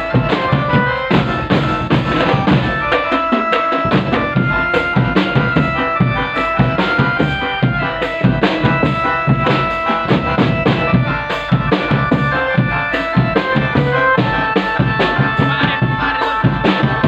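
Drum band playing: dense, fast drumming with a melody of short held notes over it.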